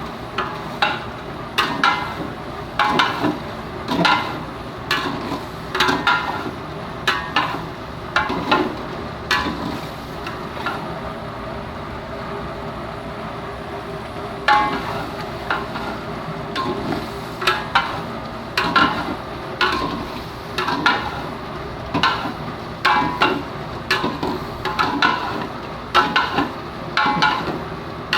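Ladle scraping and knocking against a cooking pot about once a second as chicken gizzards are stirred and fried in oil, with a steady sizzle underneath. The strokes let up for a few seconds in the middle.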